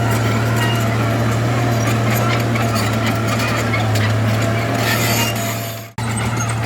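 Heavy diesel earthmoving machinery running steadily, with a constant low engine hum and light clatter. Near six seconds in the sound fades out quickly and then cuts straight back in.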